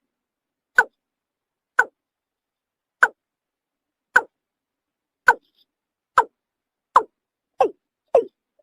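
Watercock calling: a series of short, hollow notes, each dropping in pitch, about a second apart at first and coming faster, about twice a second, near the end as the call builds up.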